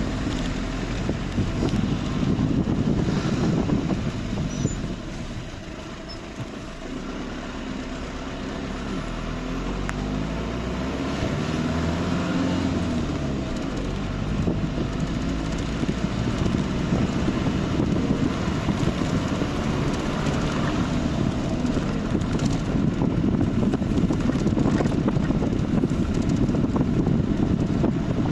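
A motor vehicle running: a steady low rumble with rough noise. Around the middle, pitched lines bend up and down as the engine note changes.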